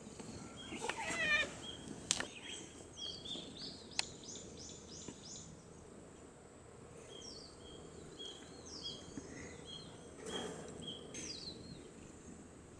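Small birds chirping repeatedly outdoors, a series of short high calls and quick falling notes, with a couple of brief rustling sounds.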